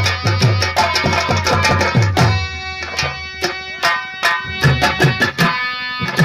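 Nautanki nagma: hand drums beating a fast folk rhythm under a held, many-overtoned melody line. The drum strokes are dense for about two seconds, then thin out to a sparser pattern, each low stroke dropping in pitch as it rings.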